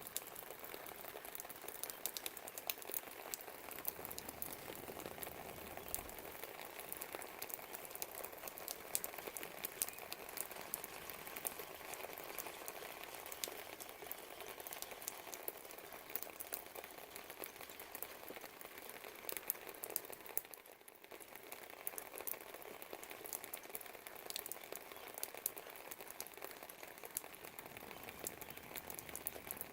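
Steady rain falling, a dense patter of drops with many small sharp ticks, easing briefly about twenty seconds in.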